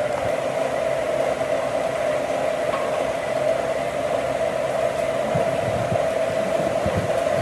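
Electric power tool running steadily with a constant mid-pitched whine over a rushing noise.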